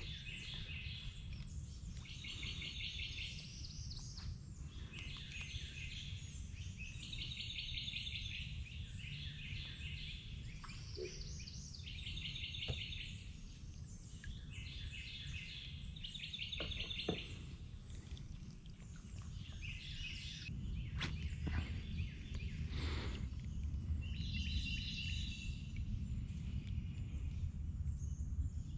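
A songbird repeats a short, fast trill about every two seconds, pausing for several seconds about two-thirds through before singing once more, over a low steady rumble and a few light knocks.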